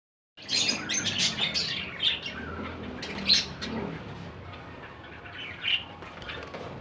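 A bird calling in short, sharp chirps and squawks. There is a quick run of calls at first, the loudest single call comes about three seconds in, and one more comes near the end.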